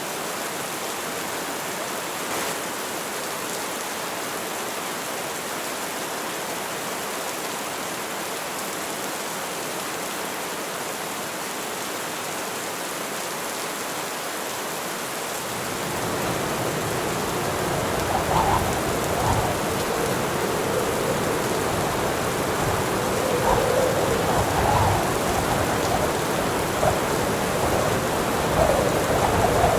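Heavy rain falling steadily. About halfway through, a long low roll of thunder comes in and keeps rumbling, with several louder swells.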